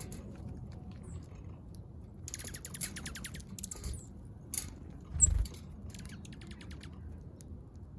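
Small backyard birds at a feeder making bursts of rapid clicking, with a short thump a little past the middle, over a steady low background rumble.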